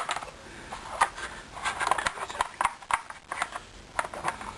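Hard plastic parts of a washing machine's detergent drawer clicking and knocking as they are handled and fitted, a string of short, irregular clicks.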